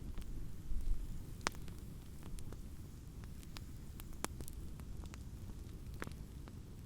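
Fire crackling in a fireplace: irregular sharp pops and snaps over a steady low rumble of the flames, with a few louder pops.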